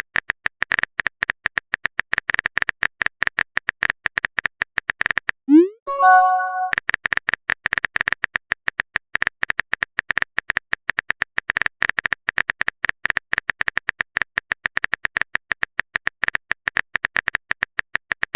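Rapid typing clicks from a phone-keyboard sound effect. About five and a half seconds in they break for a short rising swoop and a chime, a message send/receive alert, and then the typing resumes.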